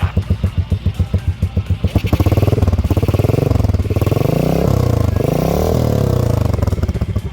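Motorcycle engine breathing through a Leo Vince aftermarket exhaust: idling with an even pulsing beat, then revved up and down for about five seconds starting about two seconds in, and dropping back to the pulsing idle near the end.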